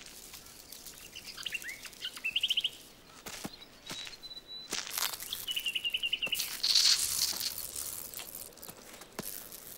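Bird calling in the background: a quick run of rising chirps, then a thin high whistle, then a fast trill. A few soft clicks are scattered through, and a short high hiss comes about seven seconds in.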